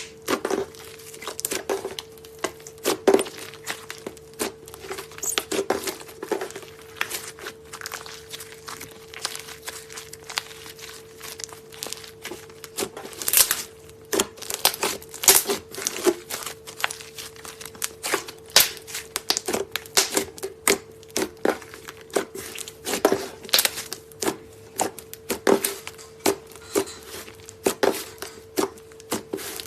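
Clay slime being handled by hand, making irregular sticky clicks and crackles several times a second, with a faint steady hum underneath.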